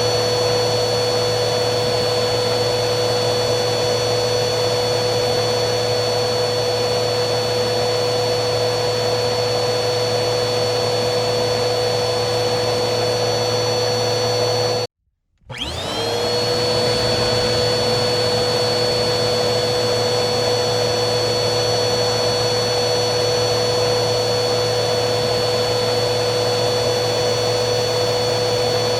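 Vacuum cleaner motor running steadily with a high whine. About halfway through it cuts out for a moment, then starts again, its whine rising back up to speed.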